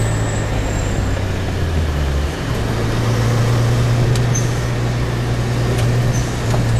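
Car engine running hard under load, heard from inside the cabin, with steady wind and road noise; the engine note briefly dips and shifts about two seconds in and again near the end.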